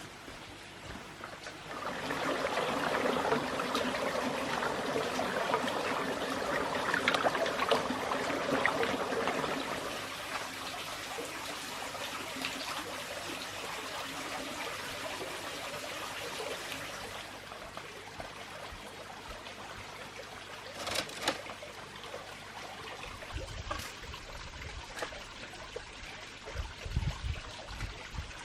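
Running water, a steady trickling hiss that starts about two seconds in and grows quieter in the second half.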